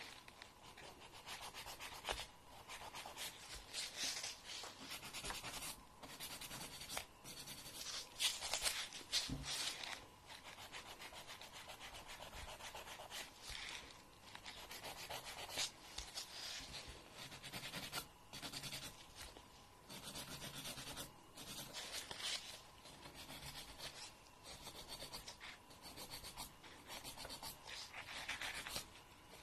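Fingernail grinding: an irregular run of dry scraping strokes, each lasting a fraction of a second to about a second.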